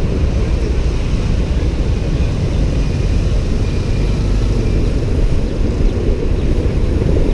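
Steady low rumble from a moving motorbike: wind on the microphone mixed with engine and road noise.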